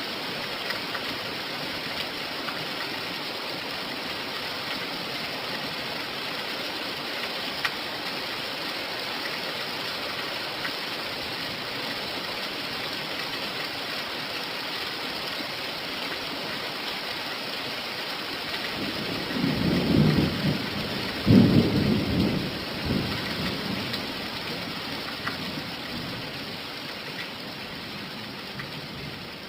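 Steady rain falling, with a roll of thunder rumbling low about two-thirds of the way through, then fading back under the rain.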